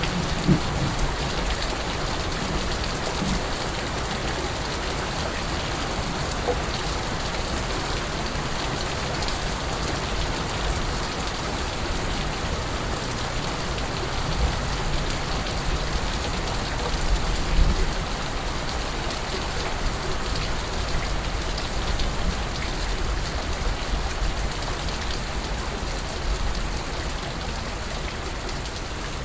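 Steady rain falling and pattering on surfaces, with occasional heavier drops landing as low thumps.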